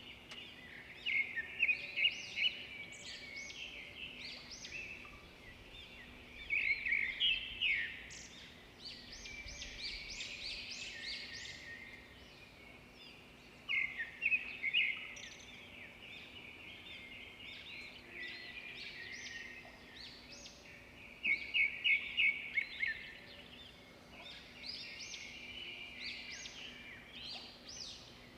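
Small birds chirping and twittering in repeated bursts of rapid high-pitched calls, each burst lasting one to three seconds, with quieter chirps in between.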